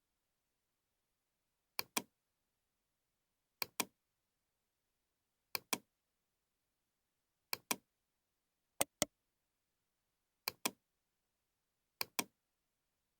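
Computer mouse double-clicking: seven quick pairs of sharp clicks, one pair every one and a half to two seconds.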